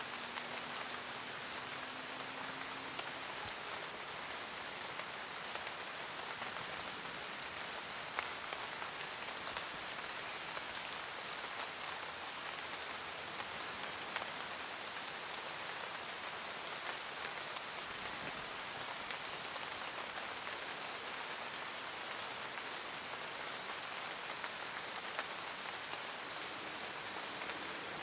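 Steady forest rain: an even hiss of falling rain with scattered sharper ticks of single drops.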